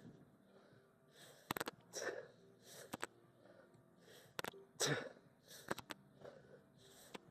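A person breathing hard in short, forceful puffs through the nose and mouth, about one a second, as during effort. A few faint sharp clicks sound in between.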